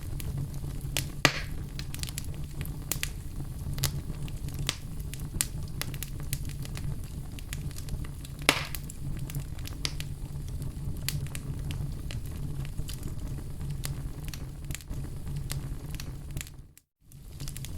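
Wood fire crackling in a fireplace: a steady low rumble of flames under frequent small pops and clicks, with two louder snaps, about a second in and about eight seconds in. The sound cuts out for a moment near the end.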